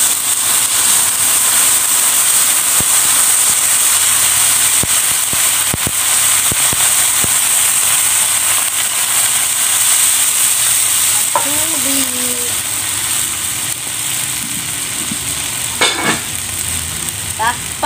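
Vegetables and meat sizzling in a hot wok over a wood fire, a steady loud hiss with scattered small crackles, as water is added to the pan.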